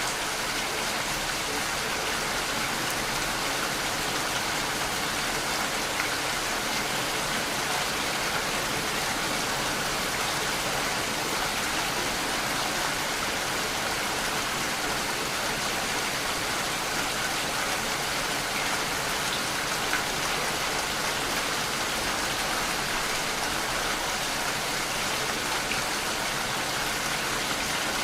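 Steady rain falling, an even hiss of many drops with a few individual drop ticks.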